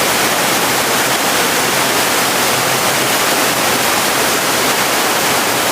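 Rushing water of a mountain stream: a steady, even rush with no breaks.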